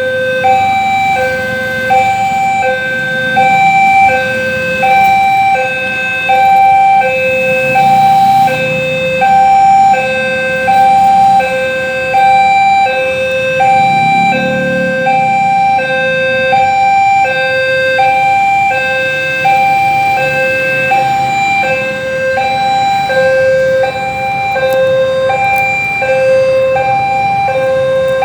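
Railway level-crossing warning alarm sounding a steady two-tone electronic hi-lo signal, alternating between a lower and a higher tone about every 0.7 s, over a low rumble.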